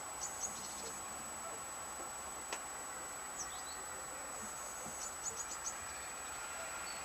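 Birds giving short, high, falling chirps in small clusters: a few just after the start, one in the middle, and a quick run of four or five near the end. Under them runs a steady high-pitched whine, and there is a single sharp click about two and a half seconds in.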